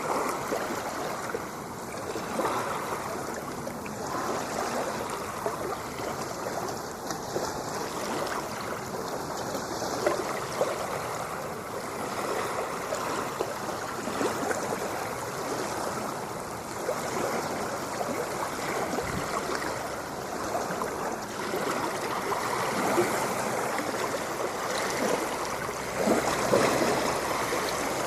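Ocean water washing and churning in a continuous wash, swelling a little louder near the end.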